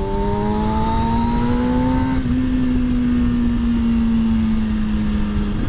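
Motorcycle engine pulling under way, its note climbing steadily for about two seconds, then easing off and slowly falling, over a steady rushing noise.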